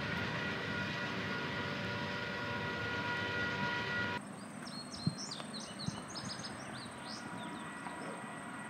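Freight train running by, a steady rumbling noise with several steady high ringing tones, which cuts off abruptly a little over four seconds in. It gives way to quieter, fainter train noise with short high chirps over it.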